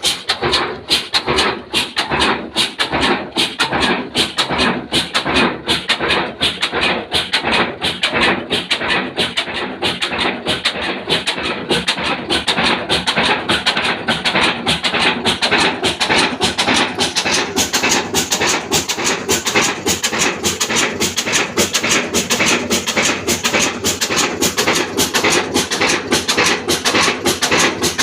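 Old Ruston 22 hp slow-speed diesel engine running steadily, with an even, rapid beat of strokes. About halfway through, a brighter, harsher hiss joins the beat.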